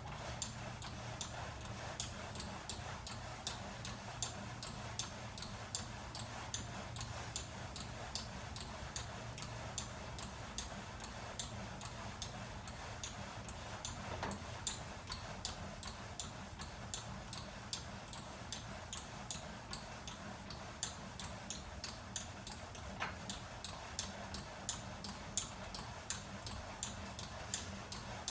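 VersaClimber vertical climbing machine squeaking as it is worked, short sharp squeaks repeating evenly about three times a second over a low steady hum. The squeak is one the owner regards as a defect, since the machine is sold as smooth and quiet.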